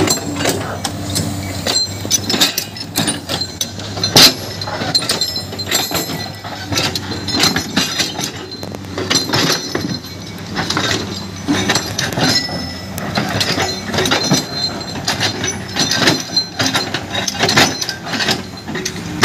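Many irregular sharp clinks and knocks of stones and rubble against steel machinery, with a low engine hum that fades about a second in.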